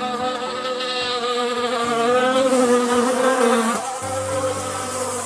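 Yellow jackets buzzing loudly, a wavering insect drone, with a lower steady hum joining about four seconds in.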